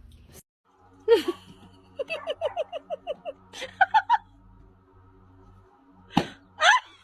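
A quick run of about ten short pitched vocal calls, like laughter, with a few rising calls after it.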